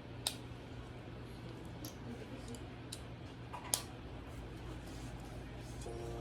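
Plastic Lego pieces being handled and snapped together: a sharp click shortly after the start and a louder one a little past halfway, with fainter ticks between, over a steady low hum.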